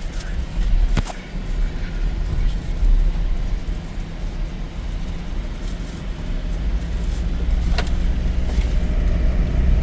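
Car driving along a road: steady low engine and road rumble, with a couple of brief sharp clicks.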